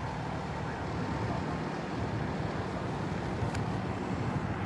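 Steady low engine rumble, running without change, mixed with wind noise on the microphone.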